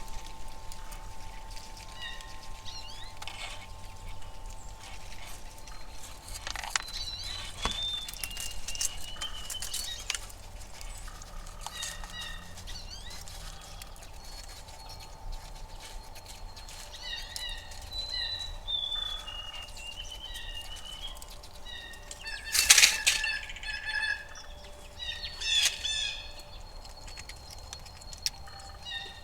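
Wild songbirds chirping and calling, with short repeated whistled notes throughout. A few sharp clicks are scattered through it, the loudest being a brief sharp noise about three-quarters of the way through.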